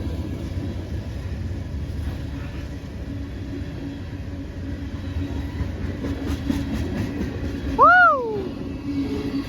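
Norfolk Southern diesel-led freight train running past at speed: a heavy low rumble with a steady engine hum, and a quick run of clicks about six seconds in. Near the end a short, high whoop rises and falls over it, the loudest moment.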